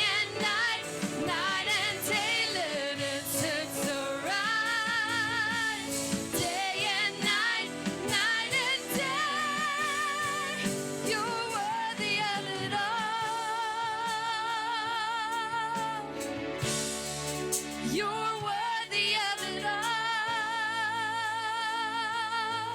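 Gospel-style worship song: a singer holds long notes with wide vibrato over instrumental accompaniment.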